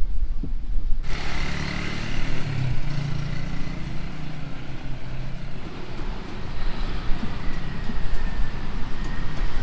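Street traffic: motor vehicles running past with a steady engine hum and road noise, starting abruptly about a second in.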